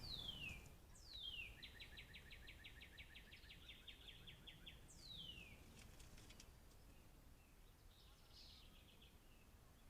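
A songbird singing: high whistles that slide down in pitch, the second one running straight into a rapid, even trill of about six notes a second that lasts some three seconds. A fainter, shorter trill comes near the end.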